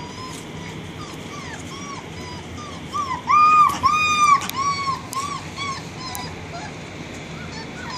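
Rottweiler puppies whimpering and yipping: a string of short, high cries, coming thickest and loudest about three to four and a half seconds in.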